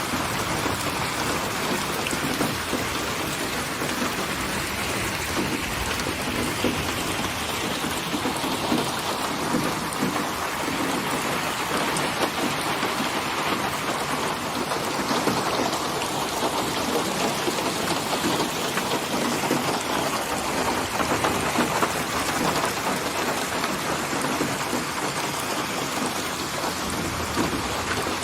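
Steady, heavy rain falling and pattering densely on a surface, with a low rumble underneath that swells and fades slowly.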